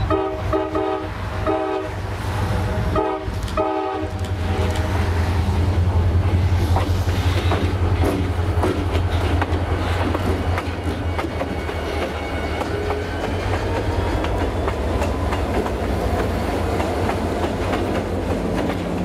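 Diesel locomotive horn sounding a quick series of short blasts as the train approaches, then the locomotives' diesel engines rumbling past with wheels clicking over the rail joints as the cars and a caboose roll by.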